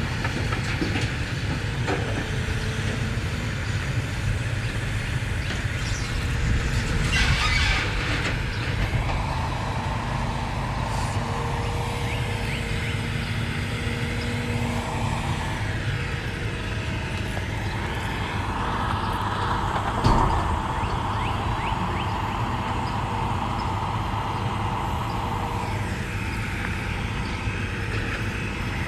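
Diesel engine of a Cat M322F wheeled excavator running steadily while it works, with a whine that comes and goes through the middle. A burst of hiss comes about seven seconds in, and one loud sharp bang about twenty seconds in.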